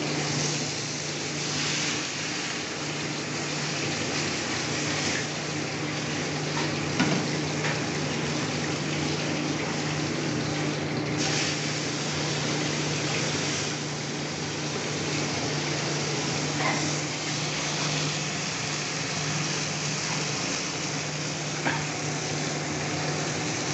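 Chicken steak sizzling steadily in a hot ridged grill pan over a gas burner, with a steady low hum underneath. Two light knocks, one about seven seconds in and one near the end.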